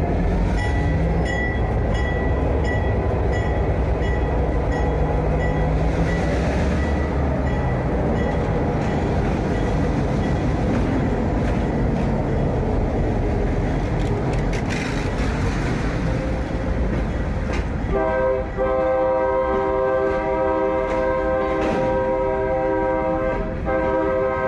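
Freight train rolling slowly past at close range, its wheels and cars making a heavy, steady rumble. About 18 seconds in, a train air horn starts sounding a loud chord and holds nearly to the end, with a couple of brief breaks.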